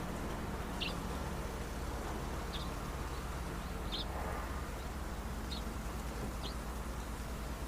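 Small birds chirping: about five short, high single chirps, spaced a second or so apart, over a steady low background hum.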